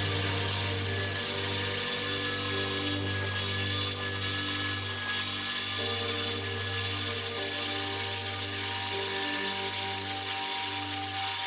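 An electric power tool running steadily, working wood, with a continuous motor drone and a hissing cutting or sanding noise.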